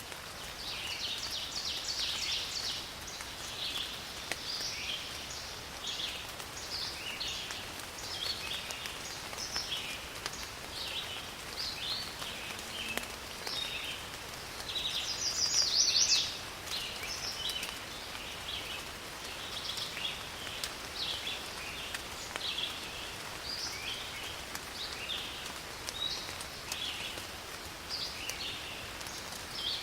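Steady rain falling in a forest, with birds giving many short chirping calls over it; one louder call stands out about halfway through.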